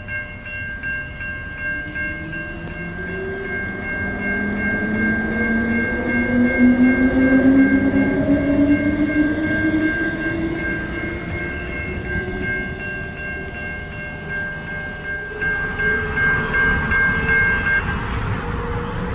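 An electric suburban train passes through a level crossing, its traction motors whining and rising steadily in pitch as it gathers speed. A steady high warning tone from the crossing sounds alongside and stops near the end.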